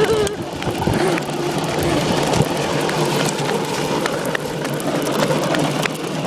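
Mini motorbike's small engine running, its pitch wavering up and down over a steady rushing noise, with scattered clicks and rattles.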